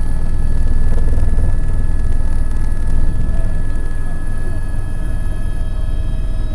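Tour helicopter in flight: the rotor and turbine engine running steadily, a loud, constant deep drone with a steady whine above it.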